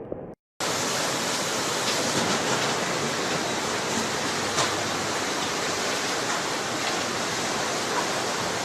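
Steady, dense rushing of floodwater, starting abruptly after a brief gap about half a second in.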